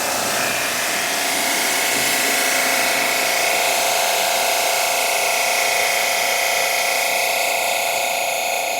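AR Blue Clean 1900 PSI electric pressure washer running with the trigger held: a loud, steady motor whine over the hiss of the water jet. It is being run under pressure to check the freshly connected hoses for leaks.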